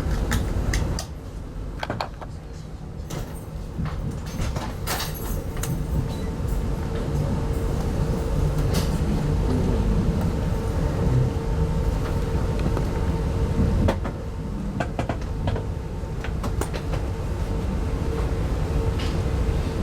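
Running noise of a 25T-series passenger coach heard from inside: a low rumble with a steady faint hum and scattered sharp clicks and knocks. The rumble drops about a second in, then grows steadily louder over the following several seconds.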